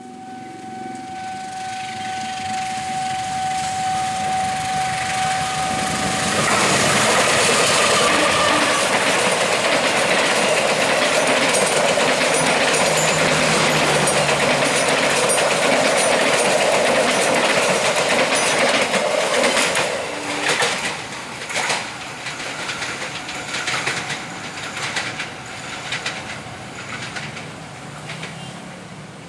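A train passing close by: its rolling noise builds for about seven seconds and stays loud for a stretch, then gives way to a run of wheel clicks over the rail joints as it moves off. A single held tone sounds through the first six seconds.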